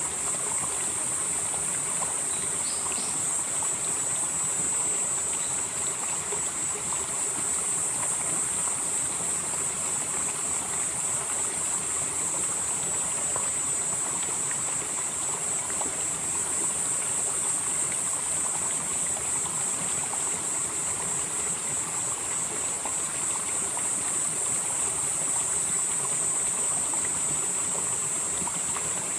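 Mountain valley stream flowing steadily over rocks, with a continuous high-pitched insect chorus on top that swells and fades every several seconds.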